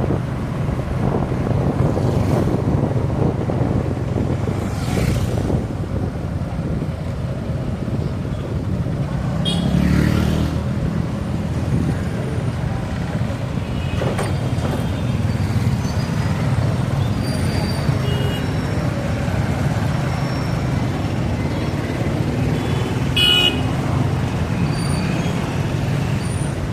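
Highway road traffic: a steady low rumble of engines and wind, vehicles passing by, and several short horn toots, the clearest about 23 seconds in.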